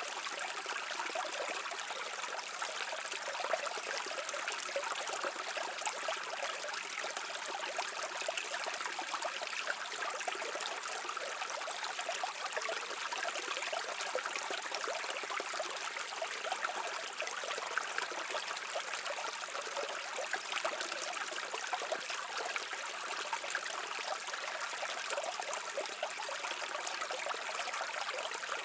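Mountain stream flowing steadily, a continuous babble and trickle of running water with no change in level.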